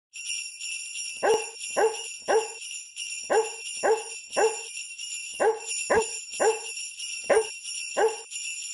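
Sleigh bells jingling steadily while a dog barks eleven times in a regular rhythm, mostly in groups of three, like a festive barking jingle.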